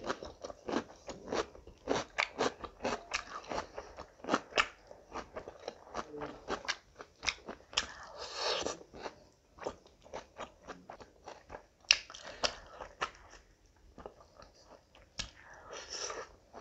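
Close-miked chewing of rice and curry eaten by hand, full of quick crunchy clicks. Around the middle and again near the end there is a longer wet hiss as a handful goes into the mouth.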